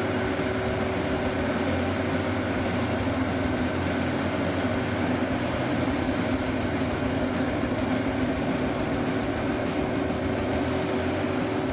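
Engine of a heavy forestry machine running steadily with a constant hum and an even tone.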